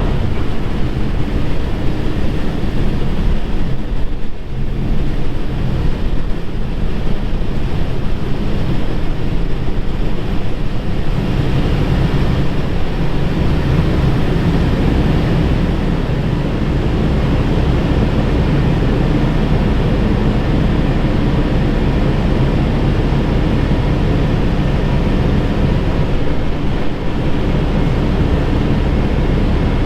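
Heavy diesel truck running steadily with road and wind noise, a continuous low drone throughout.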